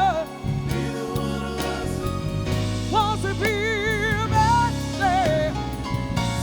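Soul band playing live, with a lead vocalist holding long notes with a wide vibrato over bass, drums and keys.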